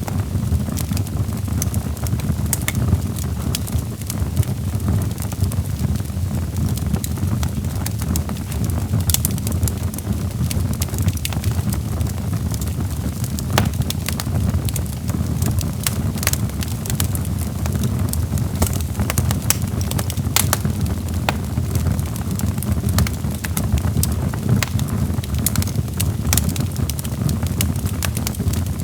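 Log fire crackling: a steady low rumble of burning wood with frequent irregular sharp pops and snaps.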